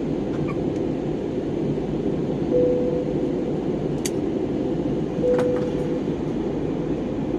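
Airliner cabin noise: a steady deep rumble of the jet engines and airflow. Three times, about two and a half seconds apart, a brief steady tone rises over it, and there are a couple of faint clicks.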